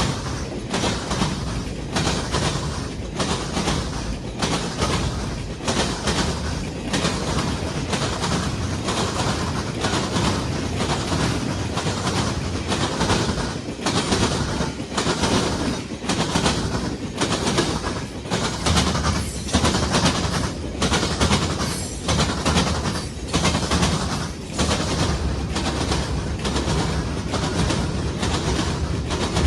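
Train passing at close range, its cars rolling by with the wheels clicking over rail joints in a steady clickety-clack over a continuous rumble.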